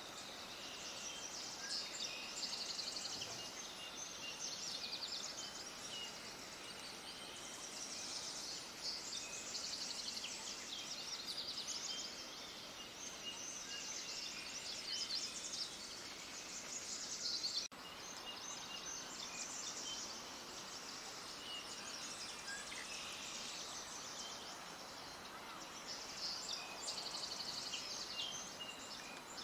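A chorus of many small songbirds chirping and trilling, a dense unbroken run of quick high notes. About 18 seconds in there is a momentary break in the sound.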